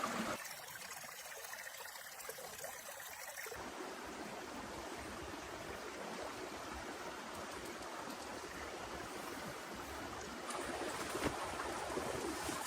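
A steady wash of water noise, of the kind heavy rain and running water make, with one sharp click about eleven seconds in. It gets a little louder near the end.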